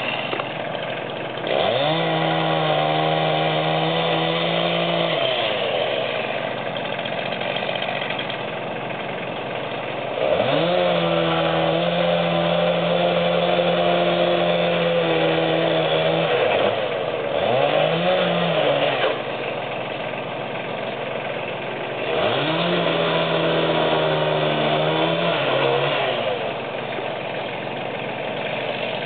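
Two-stroke chainsaw revved up to full speed and held there for a few seconds at a time, four times, dropping back to idle between runs.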